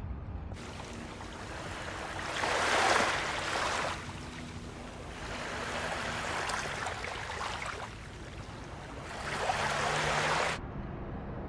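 Small Baltic Sea waves breaking and washing on a beach: a steady hiss of surf with three louder surges as waves come in.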